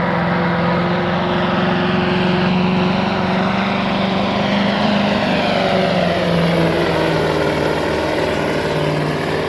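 Big-rig diesel engine running hard at steady high revs, under full load pulling the weight-transfer sled, with a thin high whistle held over it.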